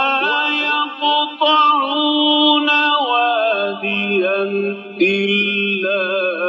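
Quran recitation in the Egyptian melodic tajweed style: a single voice chanting one long, drawn-out line with ornamented turns, stepping down in pitch about three seconds in.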